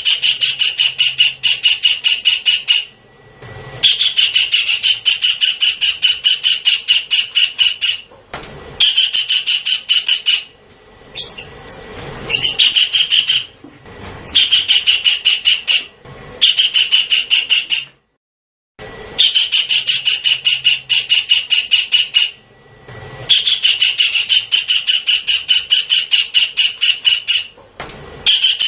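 Recorded Javan kingfisher calls played as a bird-catching lure: loud runs of fast repeated notes, several a second, each run lasting one to four seconds with short gaps between, repeating throughout.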